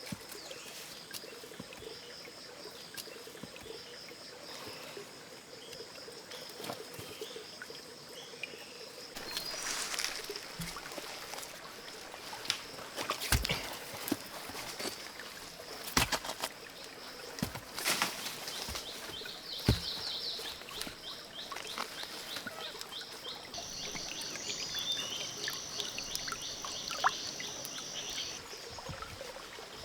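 Forest insects trilling steadily on one high note, with a louder, pulsing insect buzz for a few seconds near the end. A handful of sharp knocks or snaps come in the middle, over a soft hiss like running water.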